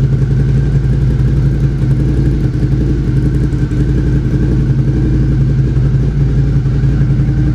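Suzuki SV650 V-twin engine idling steadily while warming up, exhausting through a MIVV replica muffler with the catalytic converter deleted and the dB killer removed.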